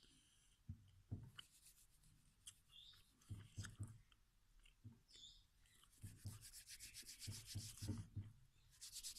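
A utensil scraping and rubbing against a bowl while mashing boiled egg and bread crumbs into soft food. It comes in faint bursts with soft knocks between them.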